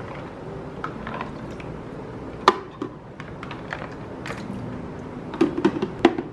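Scattered light clicks and knocks of objects being handled, the loudest about two and a half seconds in, with a quick run of them near the end.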